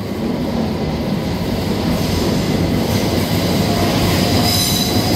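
Heathrow Express electric train pulling slowly into the station, a rough rumble of wheels on the track that grows louder, with a thin wheel squeal starting near the end.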